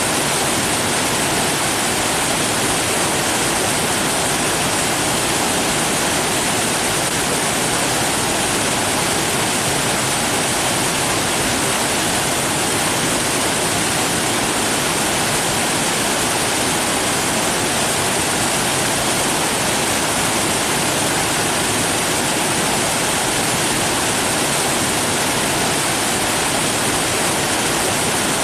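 Rushing water: a steady, unbroken hiss and roar that holds the same level throughout.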